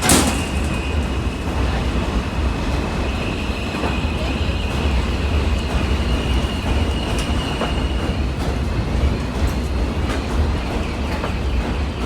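M subway train running into the station: a heavy low rumble with a steady high squeal above it, a sharp click right at the start and scattered clicks from the wheels on the rails.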